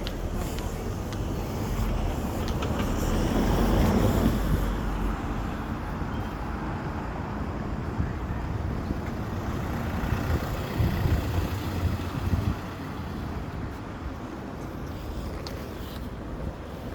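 Road vehicles passing: a rumble swells about four seconds in and fades away, and a second rumble with a few knocks follows around ten to twelve seconds in.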